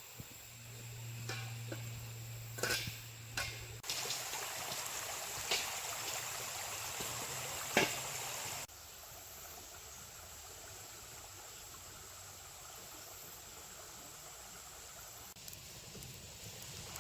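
Steady flowing creek water, with a few sharp clicks and pops in the first half. A low steady hum sits under the first few seconds, and the sound changes level abruptly several times.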